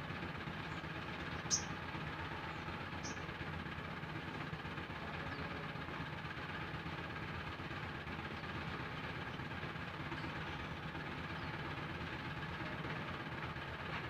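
Steady low background hum with two short, high bird chirps, the louder about one and a half seconds in and a second about three seconds in.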